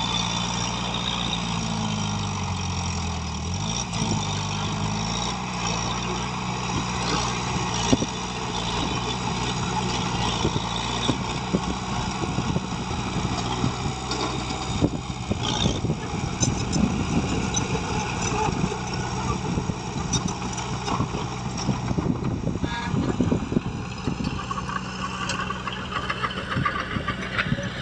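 Heavy diesel engine of earthmoving machinery running steadily; its pitch dips and comes back up about two to four seconds in. From about eight seconds on there are many irregular knocks and clatter.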